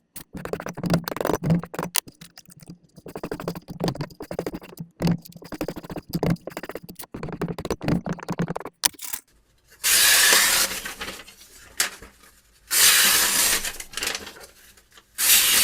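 Knife being sharpened: a sharpening stone scrapes along the blade in many quick, irregular strokes, followed in the second half by three longer, louder hissing scrapes.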